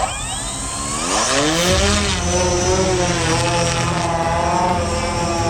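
Combat drone's propellers spinning up, the hum rising steeply in pitch over the first two seconds, then holding a steady, slightly wavering hum as it flies.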